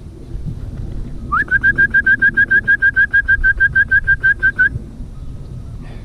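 A bird calling loudly: a fast, even run of about twenty identical whistled notes, some six a second, starting about a second in and lasting a little over three seconds, the first note sliding up.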